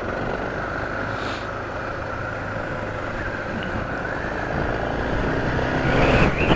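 Suzuki DR650's single-cylinder engine running while the bike is ridden along the road, mixed with road noise. The sound grows louder near the end.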